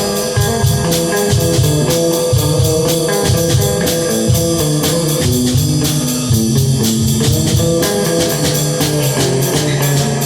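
Guitar and drum kit playing a song together at rehearsal volume, the guitar holding a run of chords and notes over a steady drum beat.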